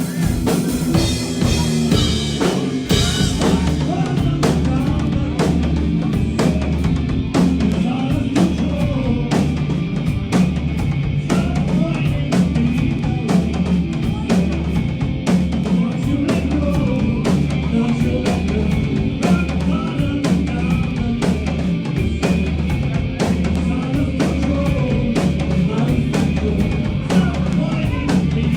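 Live rock band playing, the drum kit loudest, with a steady kick-drum pulse under snare and cymbal hits.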